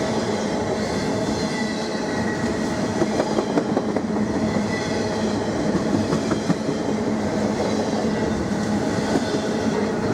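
Canadian National intermodal freight train rolling past: a steady rumble of steel wheels on rail, with scattered clicks as the wheels pass over rail joints.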